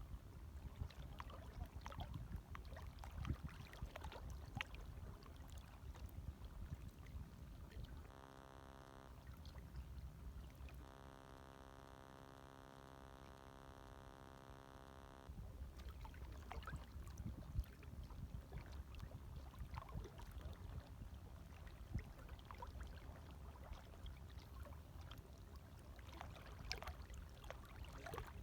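Gentle waves lapping, with small splashes and crackles, faint throughout. From about 8 to 15 seconds in the sound turns quieter and smoother, then the lapping returns.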